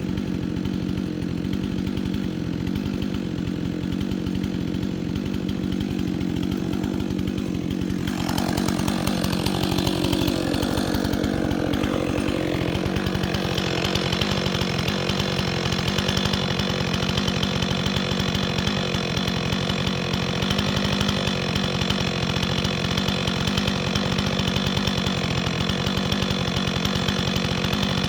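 Chainsaw running continuously. About 8 s in its pitch sweeps and shifts, and from then on it runs a little louder and brighter.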